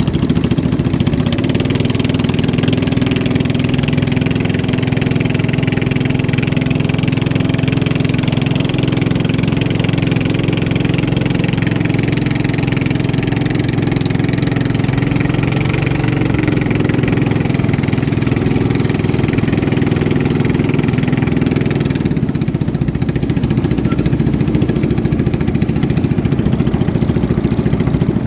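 Motorboat engine running steadily, with a rushing hiss over it that drops away about 22 seconds in.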